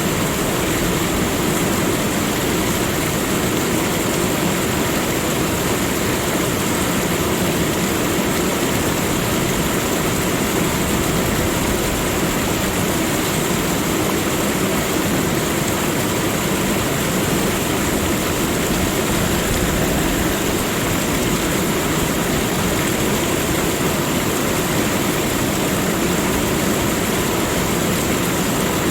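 Steady, unbroken rushing of flowing water, even in level throughout, with a faint steady high hiss above it.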